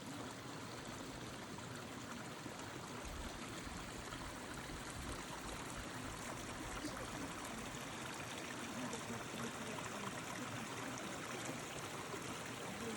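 A stream running steadily, its water rushing and trickling with no break.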